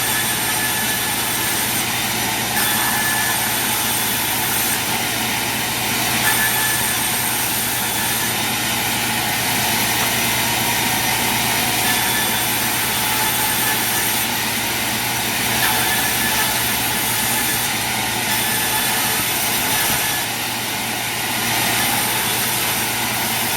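Sawmill machinery running steadily: a constant motor hum under a dense, even hiss, with no cuts or pauses.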